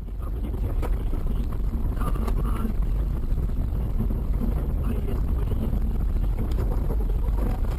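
A car driving on the road: steady low road and engine rumble with wind noise, heard from inside the moving car.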